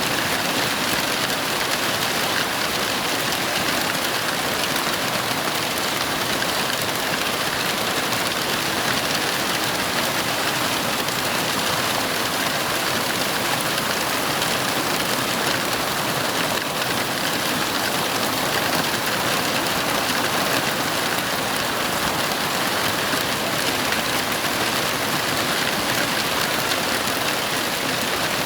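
Steady heavy rain, an even hiss of downpour with no thunderclap or other distinct event.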